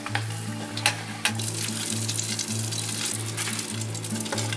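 Oil sizzling steadily as battered smelt deep-fry in a small pot, with a couple of sharp clicks about a second in. Background music with a steady, low repeating bass runs underneath.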